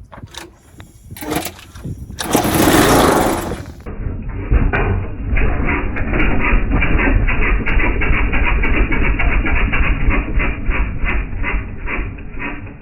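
Pressure washer's small gas engine, fed only on sprayed starting fluid, being pulled over with a loud rasping burst and then catching, running rough and pulsing for several seconds before dying out: it has no fuel reaching the carburettor.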